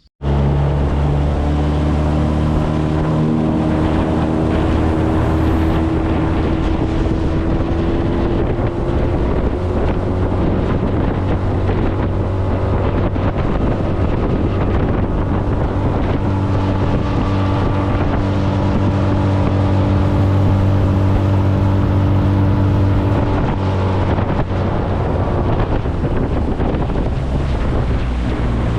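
New Yamaha 20 hp four-stroke tiller outboard running steadily under way, pushing the johnboat along during its break-in, with wind buffeting the microphone. The engine note climbs slightly over the first several seconds, then holds.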